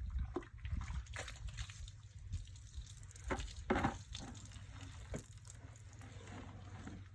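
Water splashing and dripping in irregular bursts, the loudest about four seconds in, over a steady low rumble.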